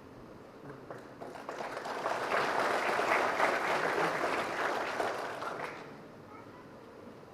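Audience applauding: the clapping builds about a second in, holds for a few seconds, and dies away about six seconds in.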